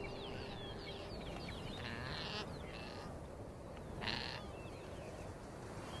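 Small birds chirping in a quick run of thin, falling chirps over a faint background, with two short hissy bursts about two and four seconds in.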